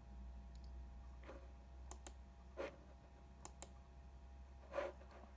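A few faint, scattered clicks over a low steady hum.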